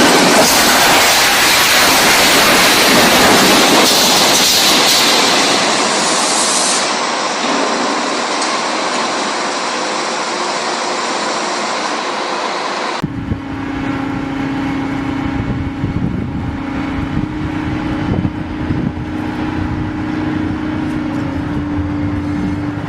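A loud, steady rushing noise, then about halfway through an abrupt cut to a machine running with a steady low hum.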